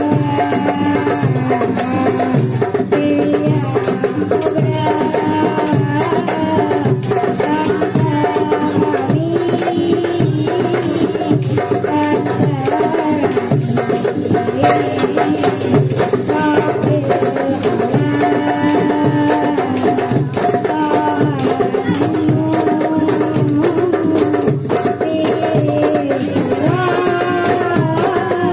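Marawis ensemble performing: hand drums beat a steady, even rhythm under a sung melody.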